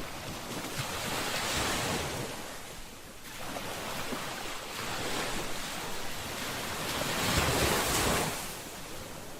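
Sea waves breaking on a shore: the surf swells and falls back, with two louder waves cresting about two seconds in and about eight seconds in.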